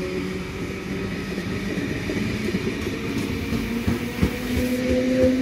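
Sydney Trains stainless-steel double-deck electric train running past along the platform: carriages rumbling and wheels clacking over rail joints, with a motor whine that strengthens and rises slightly near the end.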